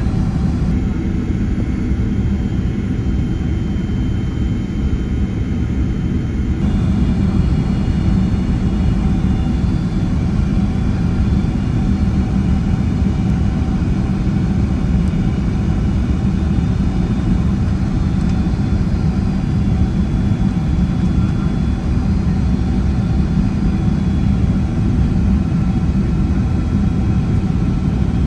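Cabin noise of a Boeing 767-300ER on approach: a steady low rumble of engines and airflow, with a faint engine whine above it.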